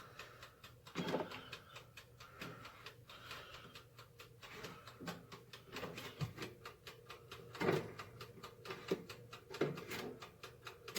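Faint, steady ticking from the mechanical timer dial of a Nostalgia BSET300AQ breakfast station's toaster oven, with a few soft knocks. The timer runs while the oven gives no heat, a sign the appliance has failed.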